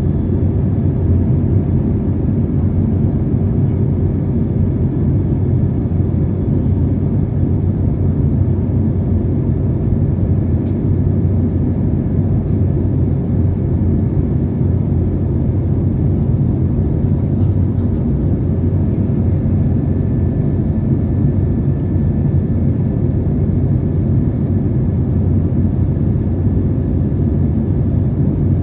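Steady low rumble of an airliner in flight, jet engine and airflow noise heard inside the passenger cabin.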